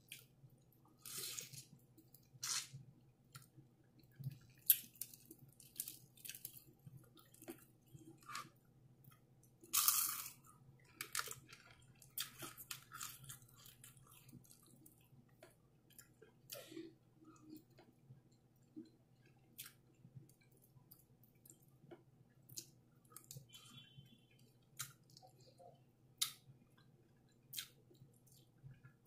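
Close-up eating of KFC fried chicken: irregular crisp crunches as the breaded chicken is bitten and chewed, with quieter chewing between them and the longest crunch about ten seconds in.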